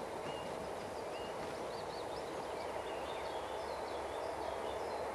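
Distant rumble of an approaching freight train hauled by a pair of EU07 electric locomotives, slowly growing louder. Small birds chirp over it.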